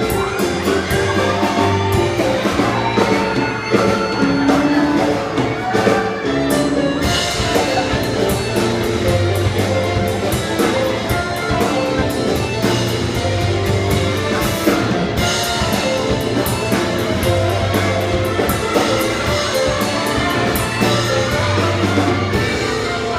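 A live band playing an instrumental piano-led rock piece, with piano and drums or percussion keeping a driving beat.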